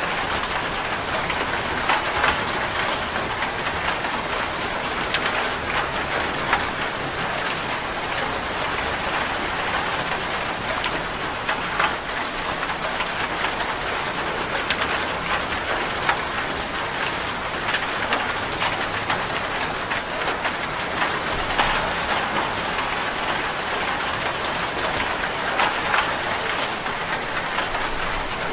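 Steady rain, an even hiss of rain falling on a surface, with a few sharper taps scattered through it.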